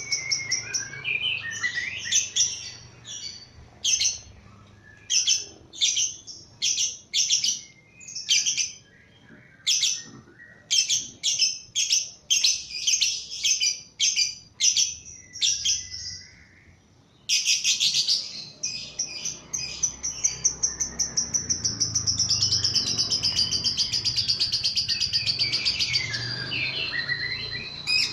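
Lovebird calling: a run of sharp, high chirps, then, after a short pause, one long unbroken rapid trill of about ten seconds, the 'ngekek' chatter prized in a singing lovebird.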